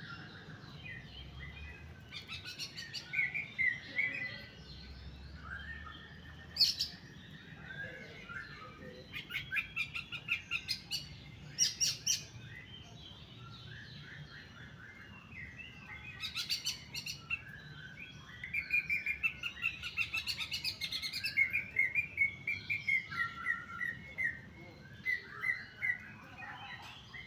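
Contest songbird singing: varied bursts of quick chirps, fast trills and sharp clicking notes, busier in the second half.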